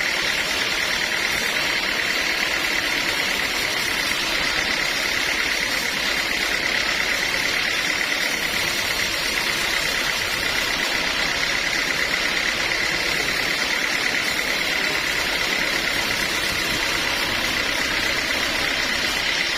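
Sawmill machinery running steadily: constant mechanical noise with a steady high whine.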